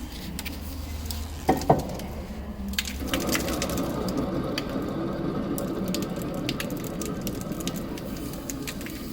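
Ford Transit's worn lower ball joint and wheel bearing making a bad noise: two sharp knocks about a second and a half in, then from about three seconds a steady rough grinding rumble with scattered clicks.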